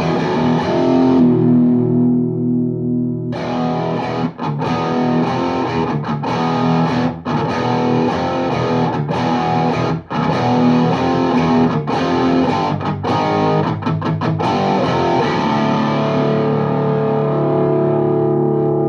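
High-gain distorted electric guitar: a Les Paul Custom through a VHT Deliverance D60 tube head (two KT88 power tubes) and a 4x12 cabinet with Vintage 30 speakers. A held chord gives way about three seconds in to riffing with short stops, then a long chord rings out from near the end.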